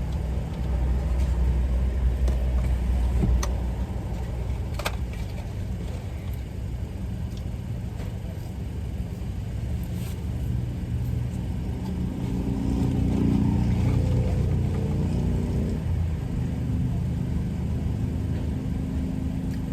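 Car engine running, heard from inside the cabin as a steady low hum that swells and rises for a few seconds about twelve seconds in. A couple of brief clicks come near the start.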